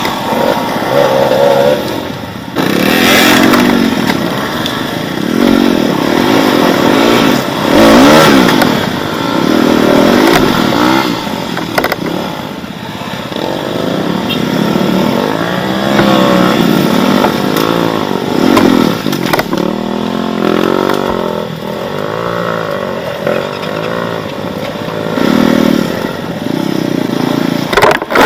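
Enduro motorcycle engine working hard under changing throttle, the revs rising and falling again and again as it is ridden over rough ground.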